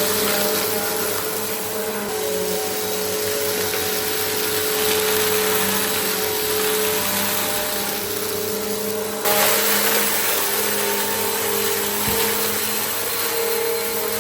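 Bissell CleanView compact vacuum cleaner running steadily with a motor hum and airflow hiss. About nine seconds in, the sound shifts abruptly and gets slightly louder.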